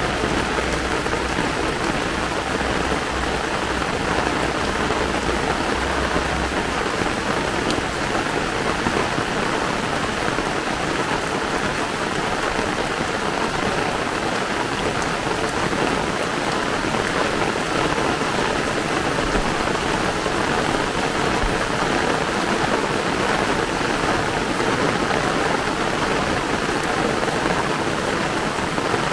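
Heavy rain falling in a steady downpour, a dense even hiss of drops on the ground and foliage. A low rumble sits underneath for the first six seconds or so, then stops.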